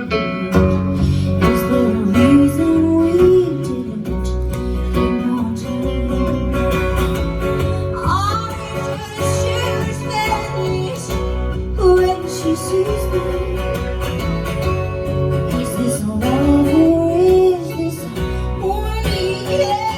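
Live band music: guitar with a singer, in a country style.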